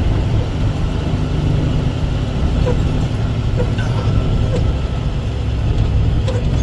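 Dump truck's diesel engine running steadily, heard from inside the cab, with a few light rattles.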